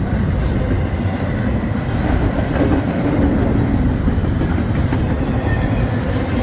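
CSX freight train's cars rolling past at close range, a steady, loud rumble of wheels on rail.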